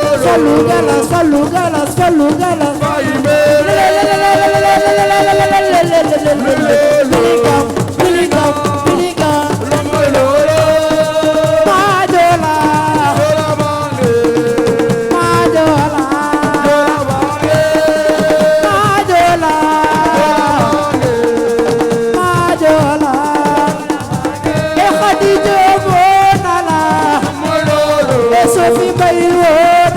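Assiko music: a lead voice singing long, wavering held notes over continuous drumming.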